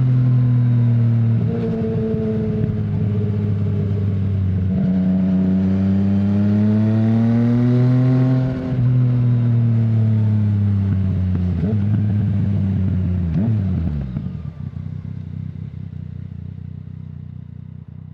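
2020 Yamaha MT-09's 847 cc three-cylinder engine running through an Akrapovic full exhaust system with no dB killer, its note rising and falling with the throttle and briefly dipping about eight seconds in. About fourteen seconds in the revs drop sharply and it settles to a lower steady rumble that fades away.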